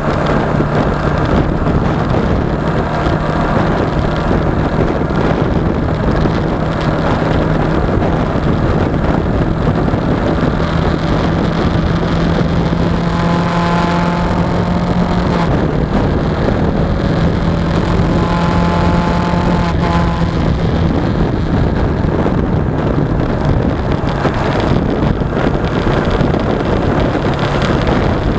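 Suzuki V-Strom 250's parallel-twin engine running at road speed under heavy wind noise on the action-camera microphone. Its pitch climbs gently, then drops a step about halfway through.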